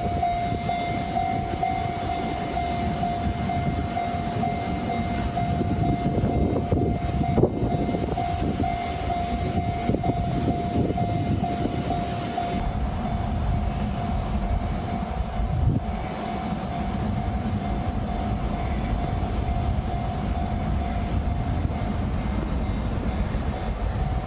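A train running past at a level crossing, its wheels rumbling on the rails, with a steady high ringing tone from the crossing's warning alarm that weakens about halfway through.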